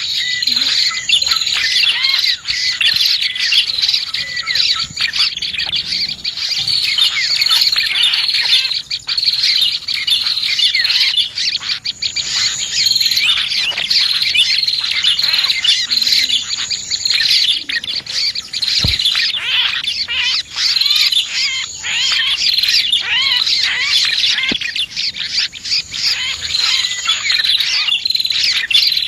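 Dense, continuous chorus of small songbirds chirping and twittering with quick overlapping notes, including prenjak (prinia) calls: a bird-luring call recording.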